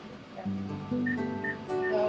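Background music: plucked acoustic guitar notes, with the playing picking up about half a second in.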